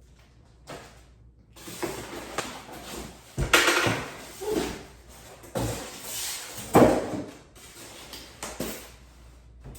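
Packaging being handled while a sewing machine is unboxed: cardboard and wrapping rustling and scraping, with a few knocks, loudest about three and a half and seven seconds in.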